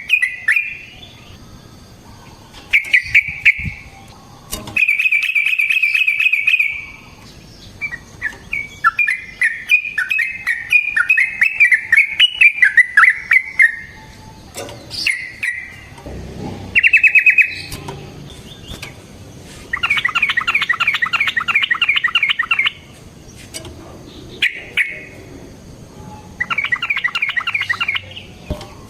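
Yellow-vented bulbul (trucukan) singing in repeated phrases of quick, chattering notes, each phrase one to three seconds long with short pauses between.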